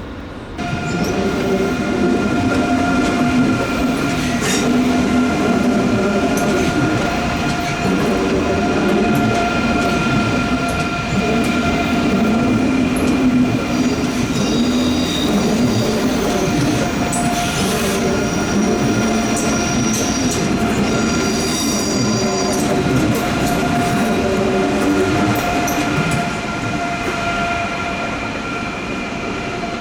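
Train passing through a tight curve, its wheel flanges squealing against the rails in a steady, loud, multi-pitched squeal over the rumble of the wheels. It swells about half a second in, and higher-pitched squeals join around the middle.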